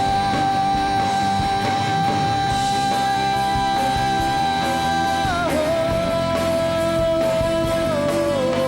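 Rock band playing live with guitars and drums, under one long held high note that steps down in pitch twice.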